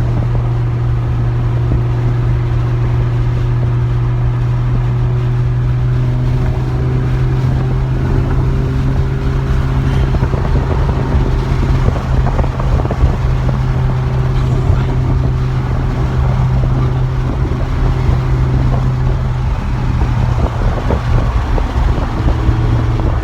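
Lamborghini Huracan Evo's V10 engine droning steadily at a constant cruise, heard from inside the cabin, with road and wind noise growing rougher about halfway through.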